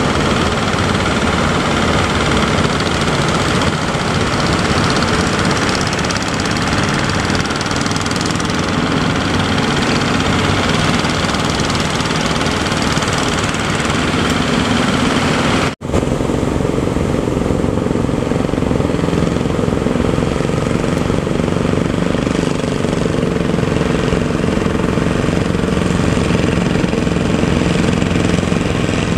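Boat engine running steadily under a wash of noise, dropping out for an instant about sixteen seconds in.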